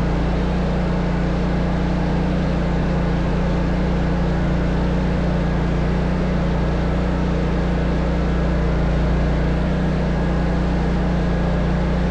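Engine running steadily at constant speed: a deep, even drone with no change in pitch.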